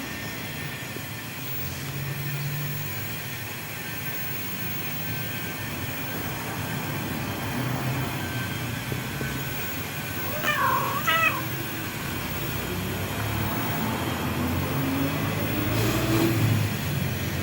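A domestic cat meowing twice in quick succession about ten seconds in, over a steady low rumble.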